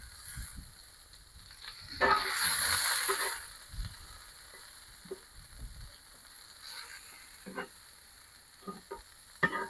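Peppers and onions sizzling in beef tallow on a hot cast iron griddle plate. A loud burst of sizzling starts about two seconds in and lasts about a second and a half. Scattered light knocks sound around it.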